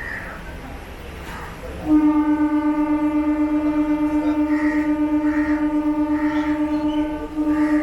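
Diesel multiple unit train's horn giving one long steady blast starting about two seconds in, then a short break and a second blast near the end: the departure signal. Crows caw in the background.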